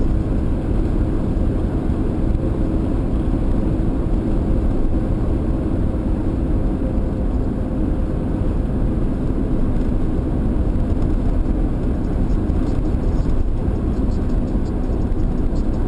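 Steady vehicle noise: a constant low rumble with a faint engine hum underneath, unchanging throughout.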